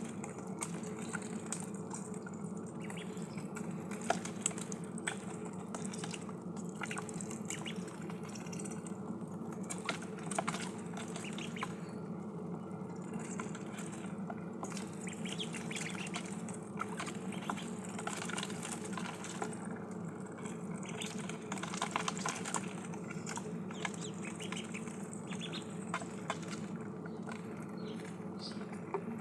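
Ducklings dabbling at water and feed: a constant irregular patter of small bill clicks, drips and splashes.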